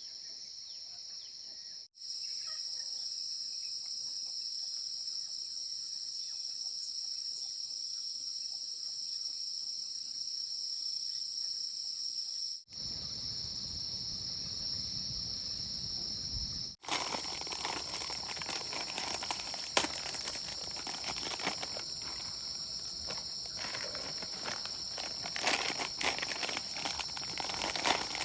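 Steady high-pitched chorus of insects in the fields, breaking off abruptly a few times. In the second half, close rustling and crackling joins it.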